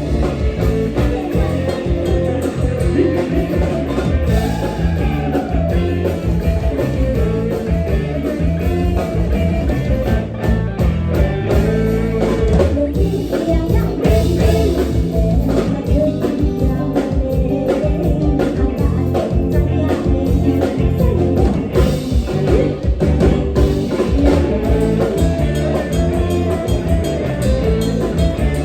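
Live Isan toey (mor lam dance tune) played by a band with bass, drums and guitar, a steady dance beat with a voice singing over it.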